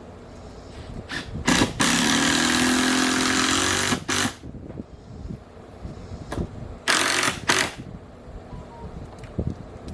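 A power tool run in short bursts during window framing work: a brief burst, then one steady run of about two seconds whose pitch sags slightly under load, then two more short bursts.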